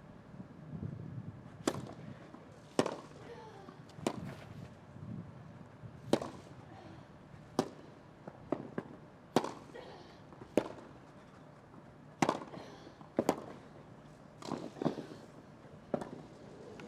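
Tennis rackets striking a ball back and forth in a rally: about a dozen sharp pops, roughly one every second or so.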